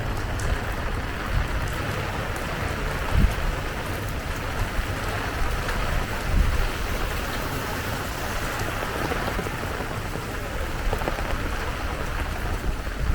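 Steady rain falling and spattering on surfaces, an even hiss with a low rumble underneath and a couple of short low thumps about three and six seconds in.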